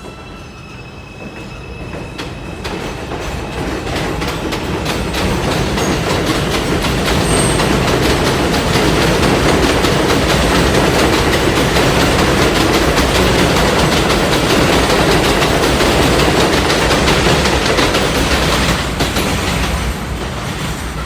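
New York City subway 2 train pulling out of the station, its wheels clicking and rumbling over the rails. The sound builds over the first several seconds, holds loud and steady, then eases off near the end as the train moves away.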